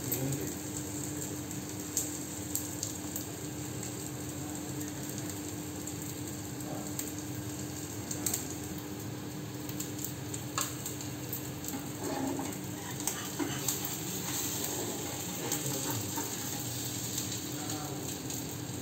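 Oil sizzling steadily under a rice chilla shallow-frying in a pan, with a few sharp taps and scrapes of a metal spatula against the pan.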